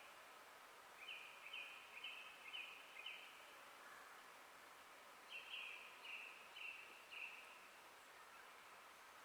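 A songbird sings two runs of four or five repeated two-part notes, about two a second, with a pause between the runs. Behind it a faint, steady, thin tone holds over a soft forest background hiss.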